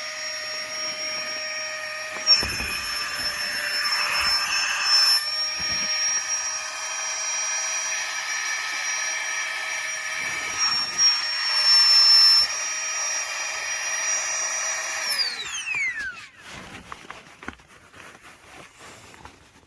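Battery-powered FlexTail portable air pump running with a steady high whine while inflating an air mattress, its pitch dipping slightly a few times. About 15 seconds in it shuts off and the whine slides down in pitch as the motor spins down, followed by faint handling sounds.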